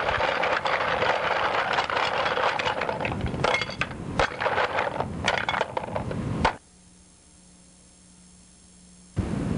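Cartoon atom-bomb blast sound effect: a loud rushing noise packed with clattering and knocking debris, which cuts off suddenly about six and a half seconds in, leaving a faint hum.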